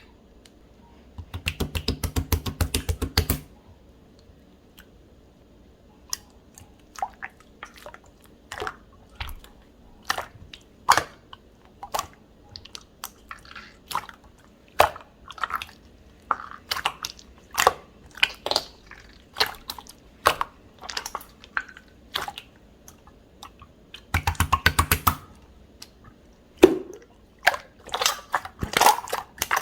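Clear slime being squished and pressed by hand, making sticky clicks and small air-bubble pops. Twice, a fast run of pops lasts a couple of seconds.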